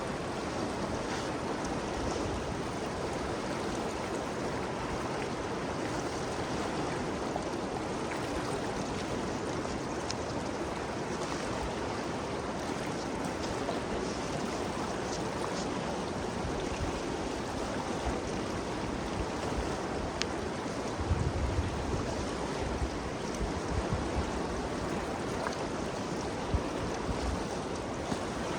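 Ganges River flowing, a steady even rush of moving water. A few brief low thuds break in over the last third.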